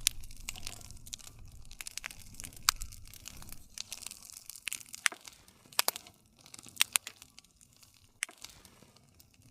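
Wood fire crackling, with sharp pops scattered irregularly over a soft hiss. The loudest pop comes a few seconds in.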